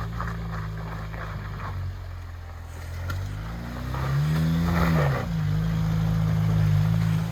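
Off-road vehicle engine running steadily, then revving up and back down about four seconds in, with a rushing noise during the rev.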